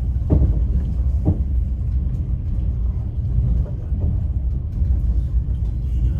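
Steady low rumble of a moving passenger train, heard from inside the carriage. There are two sharp knocks, one just after the start and another about a second later, as the wheels cross rail joints.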